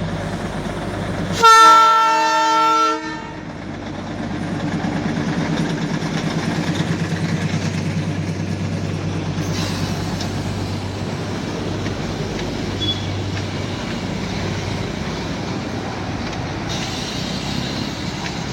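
A Darjeeling Himalayan Railway locomotive sounds one horn blast of about a second and a half, starting about a second and a half in. It runs with a steady low engine drone and rail clatter before and after the blast.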